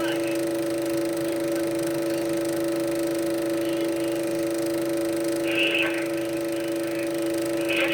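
Steady hum from a Super 8 sound projector playing a film soundtrack, with a lovebird chirping briefly about five and a half seconds in and again near the end.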